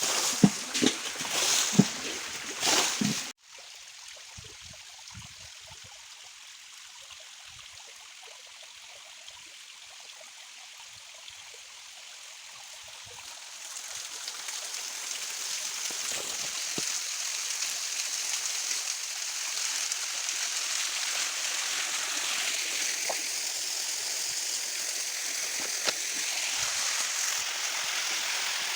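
Small hill stream running and trickling, a steady rush of water that grows louder about halfway through. The first three seconds hold loud, irregular sharp sounds that cut off abruptly.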